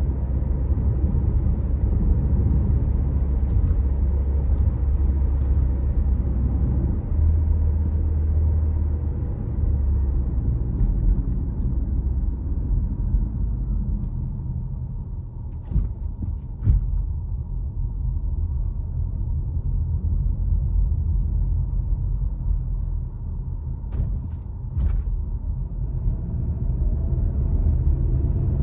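Car engine and tyre noise while driving: a steady low rumble, easing a little in the middle, with a few short sharp knocks about halfway through and again later on.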